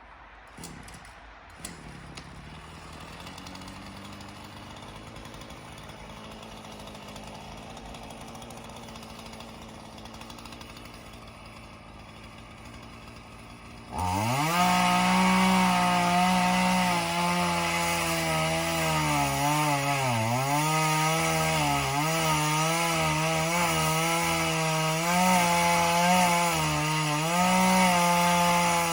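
A chainsaw cutting into a pine trunk during felling. It runs faintly and steadily at first, then about halfway through suddenly becomes much louder as it goes into the cut, its pitch dipping briefly twice as it bogs under load in the wood.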